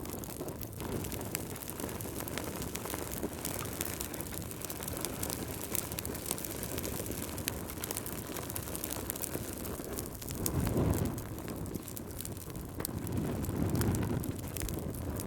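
Wood fire crackling in a fireplace, with scattered sharp pops over a steady low rush. Wind gusts swell twice, about ten seconds in and again near the end.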